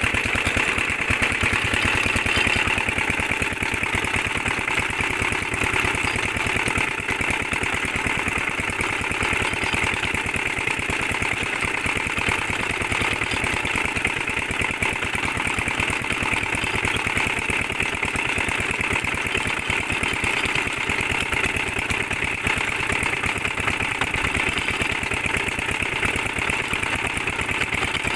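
Single-cylinder 'Peter' diesel engine driving a tube well pump, running steadily with an even, rapid firing beat that does not change.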